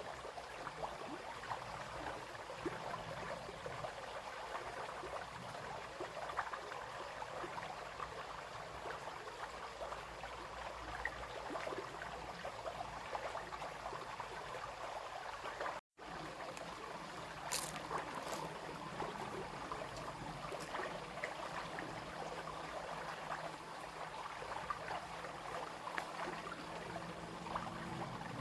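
Small brook babbling and trickling over stones, a steady rush of water with many small splashes. It cuts out for an instant about halfway through, and a couple of sharp clicks follow shortly after.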